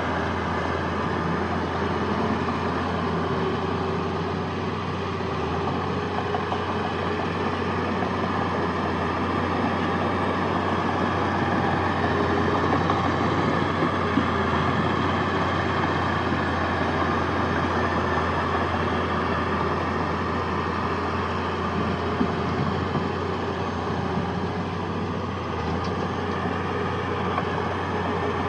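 Heavy diesel engine of earthmoving machinery running steadily, a constant low drone that holds the same pitch throughout.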